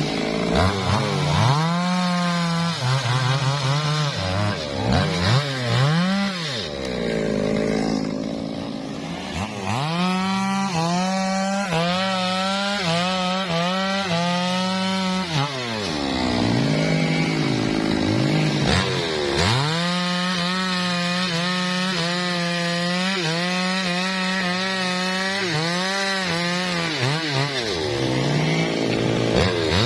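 Two-stroke chainsaw cutting teak wood. The engine is blipped up and down several times at first, then held at full revs through two long cuts, dropping back to a lower speed between them.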